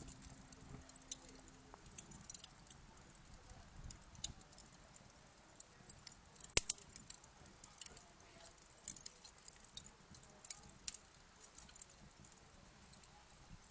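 Burning wood fire crackling faintly: irregular sharp pops and snaps over a soft hiss, with one louder pop about six and a half seconds in.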